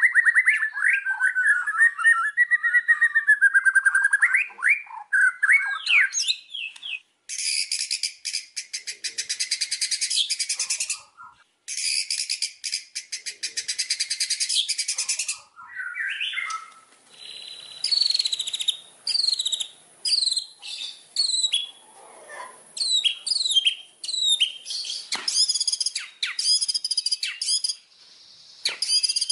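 White-rumped shama (murai batu) singing a varied, loud song: whistled phrases, then two long, fast, dry rattling trills in the middle, followed by a run of short repeated notes that each fall in pitch.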